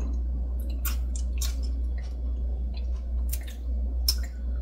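A person chewing and biting fresh herb stems, with a string of irregular crisp crunches.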